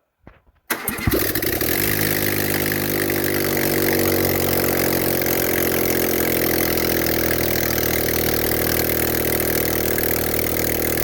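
Fiat Punto 1.2 four-cylinder petrol engine cranking briefly and catching under a second in, then idling steadily.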